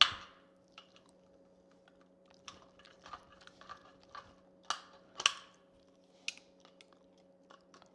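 Plastic knockout on an old-work electrical box being cracked and snipped out with wire cutters: scattered sharp clicks and plastic snaps, the loudest right at the start and a couple more about five seconds in.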